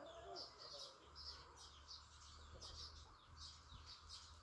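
Faint high-pitched bird chirping, a few short chirps a second, over a low steady hum that starts about a second in.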